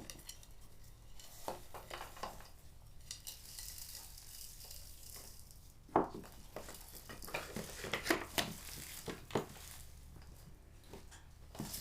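Kitchen handling as spices go onto raw meat: scattered light knocks and clinks of dishware and utensils, with a soft rustling hiss a few seconds in.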